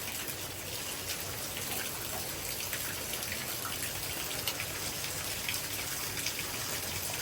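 Heavy rain falling steadily, with scattered ticks of drops striking close by.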